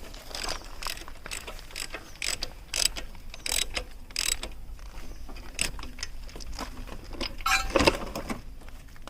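Irregular mechanical clicks and light metallic knocks of hand work on a car, with a louder clatter about eight seconds in.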